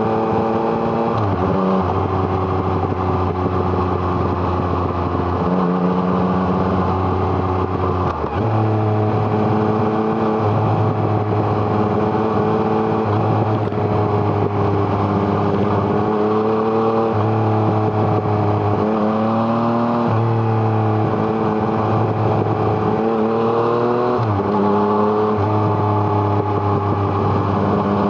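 Yamaha MT-09's 847 cc three-cylinder engine through an Arrow Thunder exhaust, heard from on the bike while it is ridden, its pitch rising slowly and then dropping sharply several times, about a second in, around eight seconds in and near the end.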